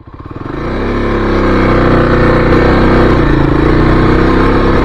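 Kawasaki KLX300's single-cylinder engine running under way at a steady pitch, fading in over the first second.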